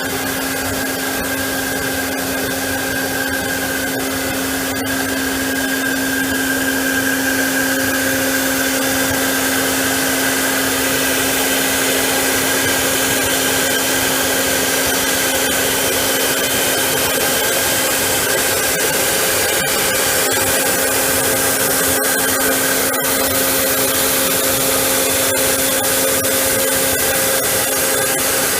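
PORTATEC Basic portal milling machine running: a steady motor whine over an even hiss, with a low hum and a higher held tone. It gets a little louder about six seconds in.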